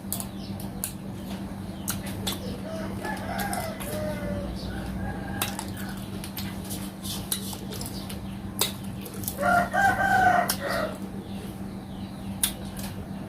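A rooster crowing twice in the background: a fainter crow about three seconds in and a louder one around ten seconds in. Small scattered clicks and taps and a steady low hum run underneath.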